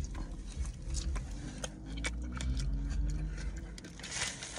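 A person chewing a mouthful of toasted sub sandwich, with soft wet mouth clicks and smacks, over a low rumble inside a car cabin.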